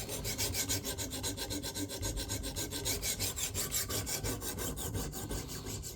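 A sharpening stone on a KME guided-rod sharpener rasping along the edge of a steel fillet knife blade in quick, even back-and-forth strokes, several a second.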